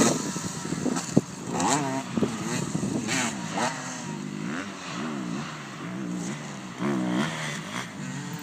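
Dirt bike engines riding a motocross track, the pitch rising and falling again and again as the riders open and close the throttle and shift, with a sharp knock about a second in.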